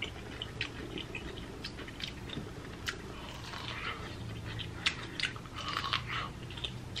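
Close-miked biting and chewing of boiled corn on the cob: many small, irregular crunches and wet clicks as the kernels are bitten off and chewed.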